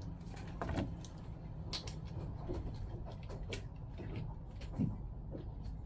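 Scattered light clicks and knocks of Jabsco diaphragm-pump parts being handled and fitted back together, over a steady low hum.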